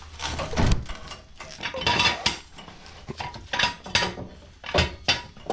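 Metal clanking and clattering in a run of irregular knocks, as metal parts and tools are handled during a mower repair.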